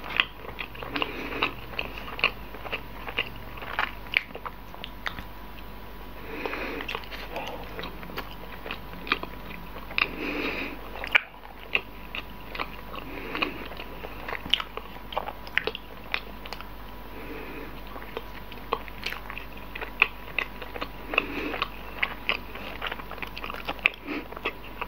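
Chewing soft roti gembong bread filled with cream and chocolate sprinkles: a steady run of wet mouth clicks and smacks, with soft chewing and biting sounds every couple of seconds.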